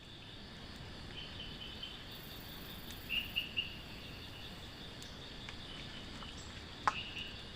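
Steady high-pitched drone of forest insects such as crickets, with a quick run of three short chirps about three seconds in, and a sharp click followed by a few more chirps near the end.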